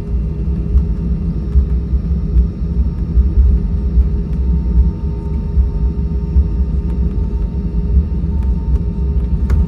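Cabin rumble of an Airbus A320-232 on the ground after landing: a steady low rumble with a constant hum from its IAE V2500 engines at idle, and a faint click near the end.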